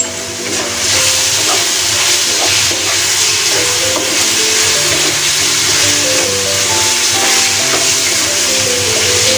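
Chicken pieces, shallots and garlic sizzling steadily in hot oil in a wok as they are stirred with a wooden spatula, under background music with a melody.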